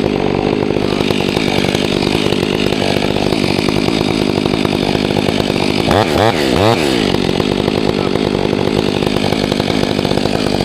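Chainsaw engine running steadily. Around six to seven seconds in, its pitch briefly sweeps up and down several times.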